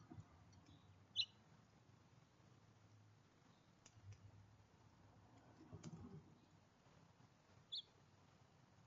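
Near silence broken by two brief, high chirps or clicks from small birds at a backyard feeder, one about a second in and one near the end, with a few faint soft knocks between them.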